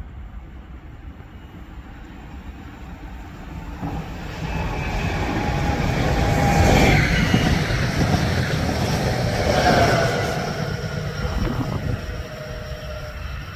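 A train going by at a station platform: its rumble builds from about four seconds in, is loudest in the middle with a couple of whining tones, then fades.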